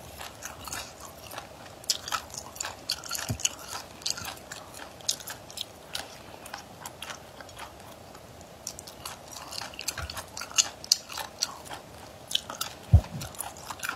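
A person chewing and biting food close to a clip-on microphone, with many irregular crisp, wet mouth clicks. The clicks thin out for a couple of seconds in the middle.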